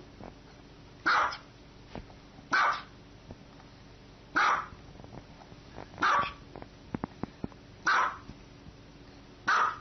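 A dog barking single barks, six in all, each short and sharp, spaced about one and a half to two seconds apart.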